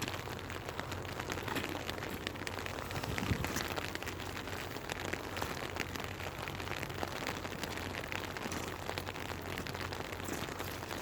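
Steady rain falling, with many small drop hits, and a brief low thud about three seconds in.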